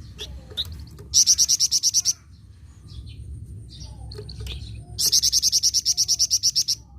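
Flamboyan songbird singing: two fast, high trills of about ten notes a second, the first about a second in and lasting about a second, the second starting about five seconds in and lasting nearly two seconds, with softer chirps between them over a low background rumble.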